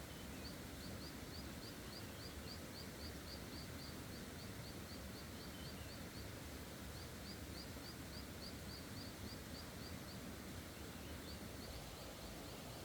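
A bird calling in runs of quick, short, high upslurred chirps, about five a second, with pauses between the runs, over a steady background hiss.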